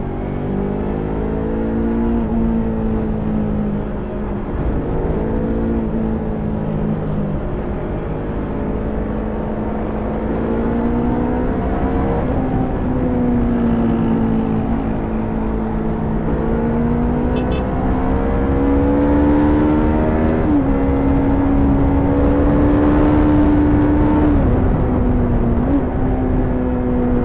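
Stock Yamaha YZF-R3's 321 cc parallel-twin engine under way, its note climbing and falling with the throttle, with a few sudden drops in pitch, the largest about twenty seconds in. A steady low rush runs beneath the engine.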